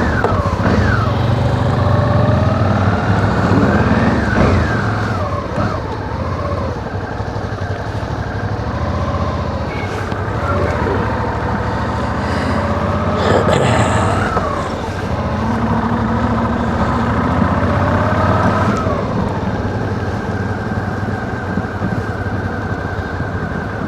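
Suzuki V-Strom adventure motorcycle engine running while ridden off-road, its pitch rising and falling several times with throttle and gear changes, over a steady rush of wind noise.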